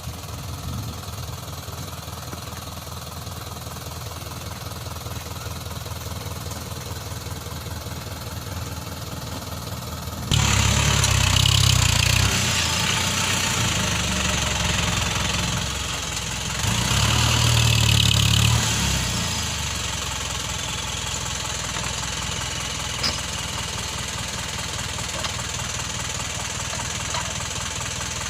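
Isuzu Elf dump truck's diesel engine running with a knocking clatter. About ten seconds in it suddenly grows louder, and it swells twice before settling back to a steady run.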